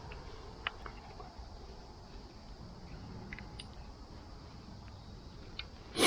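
A few faint scattered clicks over a low steady background, ending in one loud, sharp knock.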